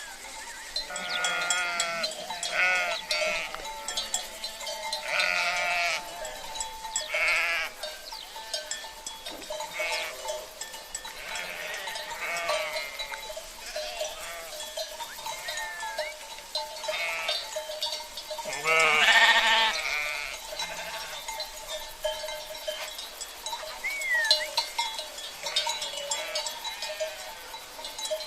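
A flock of sheep bleating over and over, many calls overlapping, the loudest about two-thirds of the way through, with cowbells (cencerros) ringing steadily underneath.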